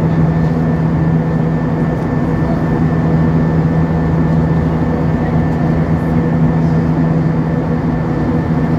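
Steady cabin noise inside an Airbus A320-232 in flight: the drone of its IAE V2500 engines and the rush of air over the fuselage, with a constant low hum and a thin, high whine.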